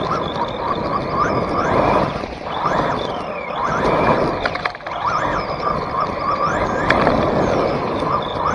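Exceed RC drift car running, its electric motor whining up and down with the throttle over the noise of the tyres sliding on the surface, swelling and fading about every two seconds, with a few sharp clicks.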